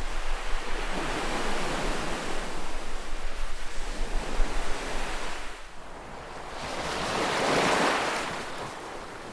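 Calm ocean waves washing on a beach. One long wash lasts about five seconds, then after a short lull a second wave swells up and fades away near the end.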